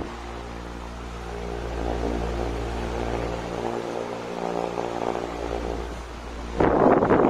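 Super Delta column fan running, its electric motor giving a steady low hum with several overtones. Near the end a loud rush of air from the fan hits the microphone.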